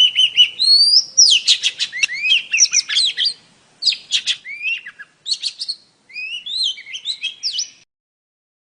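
Oriental magpie-robin song, said to be a female's, used to draw male magpie-robins into song. It is a fast run of varied clear whistles, rising and falling slurs and sharp chirps, with a few short pauses, and it cuts off suddenly near the end.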